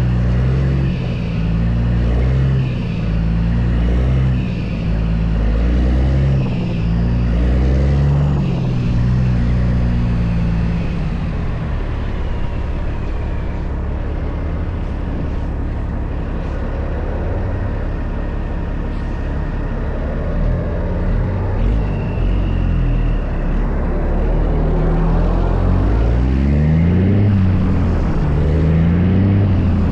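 Heavy diesel truck engine pulling through the gears, its pitch rising and dropping back with each shift, steady for a stretch in the middle, then climbing again near the end.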